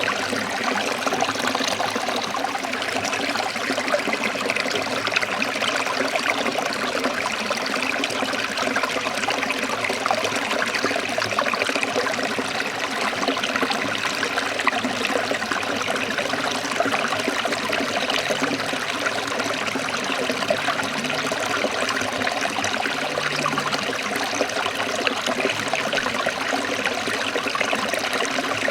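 Forest stream trickling and splashing over rocks in a steady flow of water.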